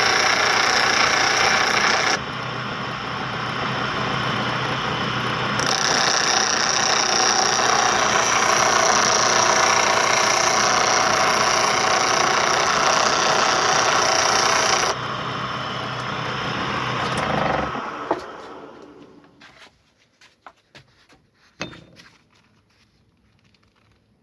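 A power tool motor running steadily for about fifteen seconds, its level stepping up and down a couple of times, then easing off and winding down to a stop. A few light clicks of tools follow.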